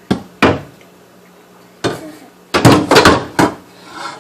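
A series of sharp knocks and clatters, like objects being handled and bumped: two about half a second apart at the start, one near the middle, then a quick run of several.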